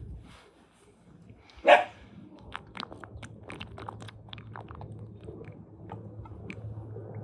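A dog barks once, loudly, then a series of light clicks and taps follows over a steady low hum.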